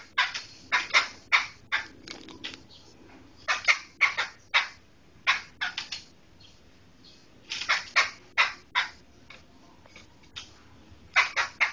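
Poksai hitam (black laughingthrush) calling in harsh, rapid bursts of short notes, grouped in clusters separated by brief pauses.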